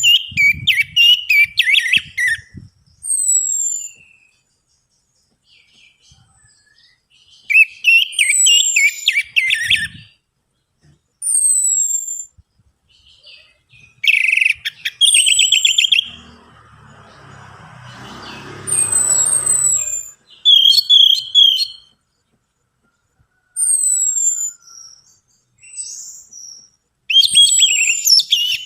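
Orange-headed thrush (anis merah) singing in repeated phrases of clear, falling whistles mixed with fast, scratchy chattering trills, a phrase every five or six seconds. A fainter rustling hiss with a low rumble comes in between two phrases, a little past the middle.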